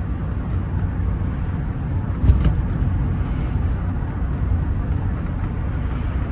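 Steady low rumble of road and engine noise inside the cabin of a Rolls-Royce Silver Spirit III on the move, with a single short knock about two seconds in.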